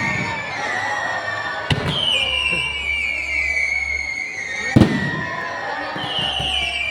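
Fireworks going off: long high whistles, each sliding slowly down in pitch over two or three seconds, cut through by a sharp bang about two seconds in and a louder one near five seconds.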